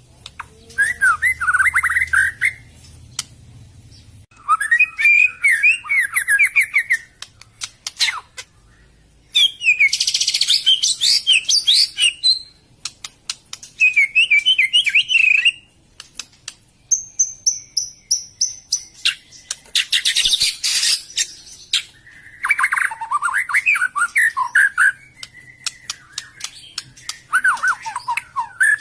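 A murai songbird (magpie-robin) singing loud, rapidly varied phrases of one to three seconds with short pauses between, mixing quick warbles, a high whistled run and harsh scratchy notes, with sharp clicks scattered through.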